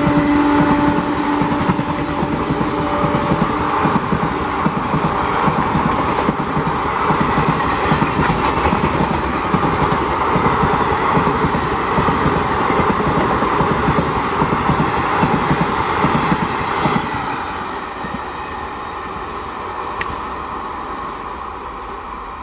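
Express train's passenger coaches rushing past at full speed, wheels clattering in a fast rhythm, with the locomotive's horn tailing off in the first few seconds. The noise drops off sharply about seventeen seconds in as the last coach passes and the train draws away.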